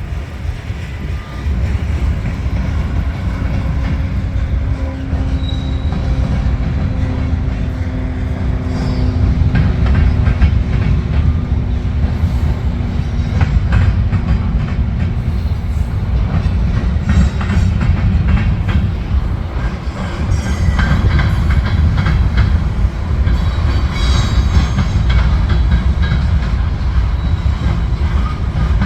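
A train rolling past close by, its cars making a steady low rumble, with wheels clicking over the rail joints through the second half.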